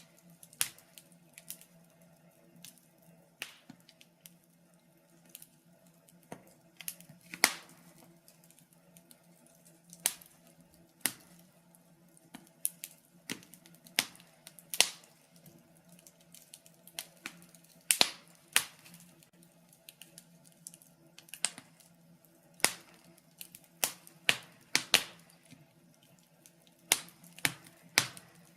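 Wood fire crackling in a fireplace: irregular sharp pops and snaps, some loud, with quieter ticks between them, over a faint steady low hum.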